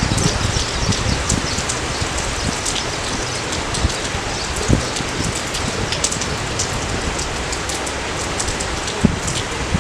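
Steady rain falling, an even hiss with scattered close drop ticks and a few low thuds.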